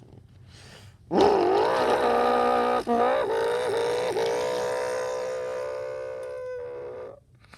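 A boy imitating a Corvette engine with his voice. After about a second he starts one long held engine drone: the pitch swoops up at the start, then holds steady with two brief catches and sags slightly before cutting off near the end.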